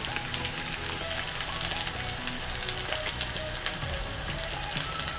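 Sliced taro root (arbi) frying in oil in a heavy-bottomed pan on low heat: a steady sizzle dotted with many small crackling pops.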